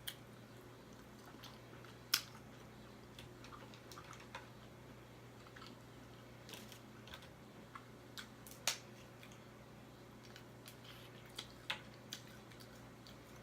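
Crab legs being cracked and eaten: scattered sharp cracks and clicks of shell breaking, the loudest about two seconds in, near the middle and three in quick succession near the end, with quiet chewing between.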